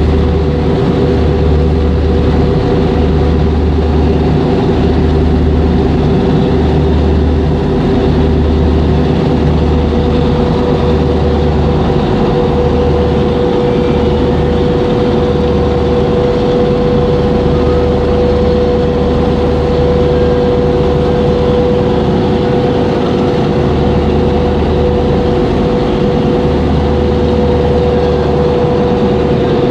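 Engine running steadily, a constant droning hum with a low rumble that swells and dips every second or two.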